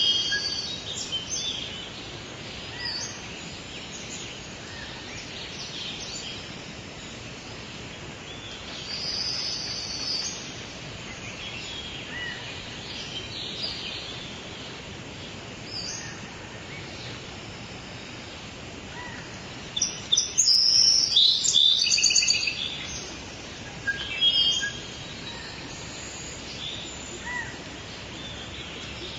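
Birds calling and singing in short high chirps over a steady background hiss of outdoor ambience, with a louder run of rapid song about two-thirds of the way through and a shorter one soon after.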